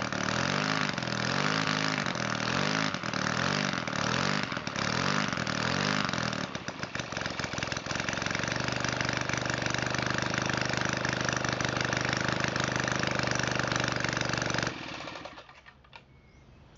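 Valach 170cc two-stroke model engine running rich on a 25:1 fuel-oil mix, its speed rising and falling about once a second. It then settles to a steadier, lower idle and cuts off suddenly near the end.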